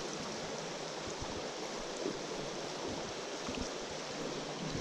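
Small mountain stream running steadily: an even rush of flowing water.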